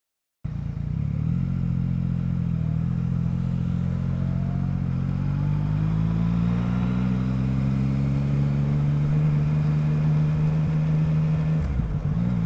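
Yamaha MT-09's three-cylinder engine under way, cutting in abruptly about half a second in. Its pitch climbs slowly as the bike gathers speed, then holds steady, with a brief dip near the end.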